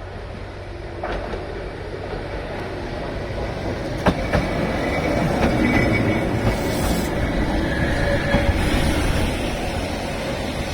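Keihan 600 series two-car electric train running on the rails, growing louder over the first half, with a few sharp clicks from the wheels and a thin high wheel squeal in the middle.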